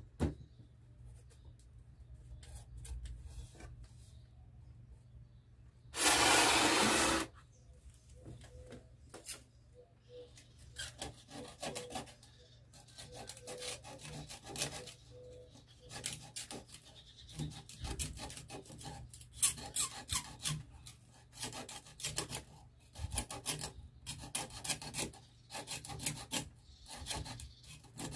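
Sandpaper being rubbed and pressed down in many short, irregular scraping strokes while it is glued onto a homemade bench grinder's wheel. About six seconds in there is a loud rush of noise lasting just over a second.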